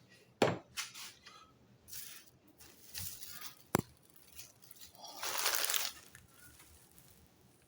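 A nearly empty hot sauce bottle being handled and squeezed out over a bowl of ramen, with a couple of sharp clicks and short sputtering, hissing spurts. The longest spurt lasts about a second, just after five seconds in.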